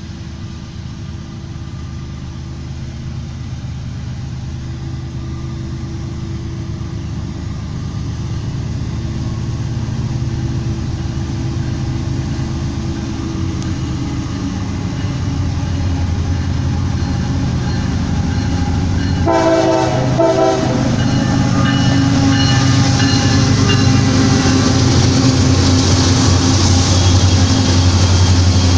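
A train approaching, its diesel locomotive drone growing steadily louder, with one short horn blast of several tones about two-thirds of the way through.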